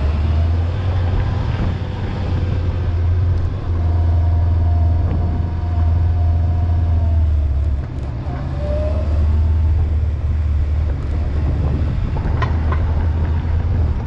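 Honda motorcycle riding along the road: a steady low engine and road drone that dips briefly a few times.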